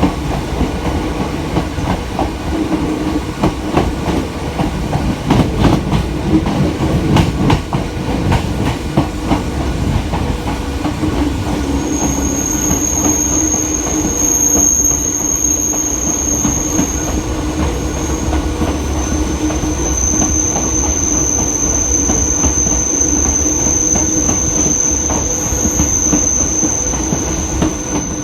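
Hakone Tozan Railway electric train running, its wheels clicking over rail joints at first. About halfway through a high steady wheel squeal sets in on a curve and lasts to the end, over a steady low hum.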